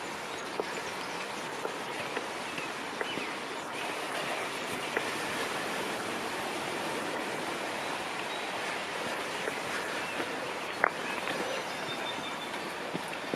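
Woodland ambience: a steady rushing noise with scattered small clicks, and one sharper snap about eleven seconds in.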